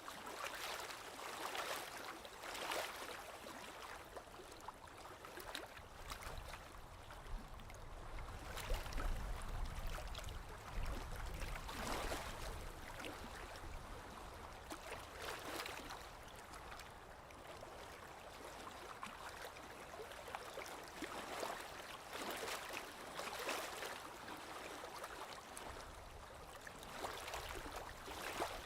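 Small waves lapping against a lake shore, one soft splash every second or two. A low rumble runs underneath for a few seconds near the middle.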